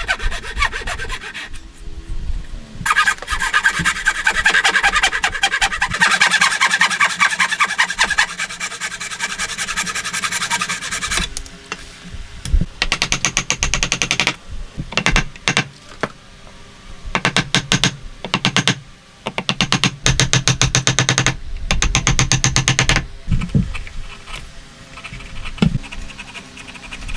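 A hand tool working wood with rapid repeated strokes, like a rasp or saw. The strokes come in one long run of several seconds and then in shorter bursts with pauses between.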